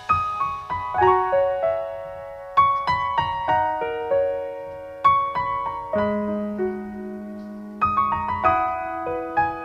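Background music: a solo piano or electric piano playing a gentle melody, notes struck and left to ring in phrases that start again about every two and a half seconds.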